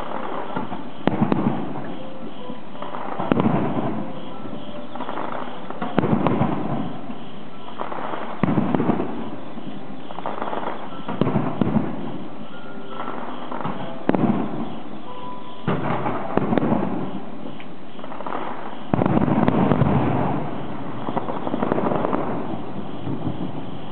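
Aerial fireworks shells bursting with deep booms, one every two to three seconds, each followed by a short crackle. There is a longer run of crackling about two-thirds of the way through.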